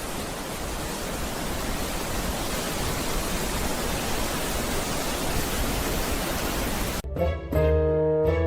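A steady, even rushing noise with no distinct events, cut off abruptly about seven seconds in, when background music with sustained notes begins.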